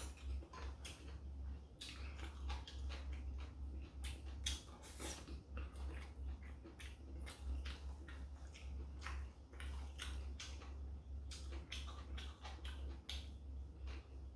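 A person eating: chewing with irregular wet mouth clicks and smacks, now and then chopsticks tapping a dish, over a steady low hum.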